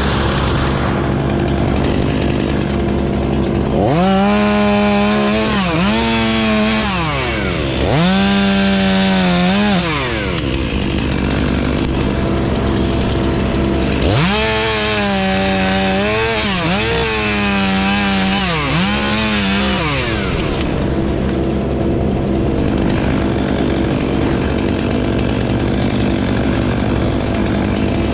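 Two-stroke chainsaw idling, then revved up to full throttle and held there with small dips in pitch in two spells, from about four to ten seconds in and again from about fourteen to twenty seconds in, before dropping back.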